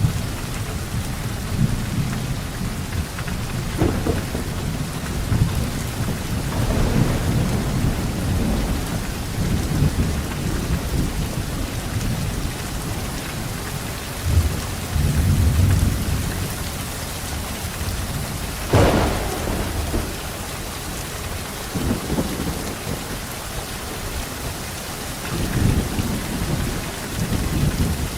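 Steady rain falling, with thunder rumbling low throughout. Several sharper cracks stand out, the loudest about two-thirds of the way through.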